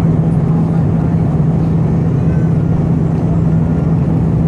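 Steady, loud drone of engine and airflow noise inside the cabin of an Airbus A319 airliner, with a steady low hum running under it.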